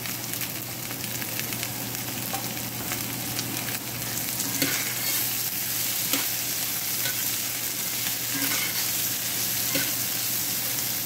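Stir-fry of rice cake cubes, shrimp, bean sprouts and chives sizzling steadily in a hot cast-iron skillet as a metal spatula turns and tosses it, with a sharper scrape or clink of the spatula on the pan now and then.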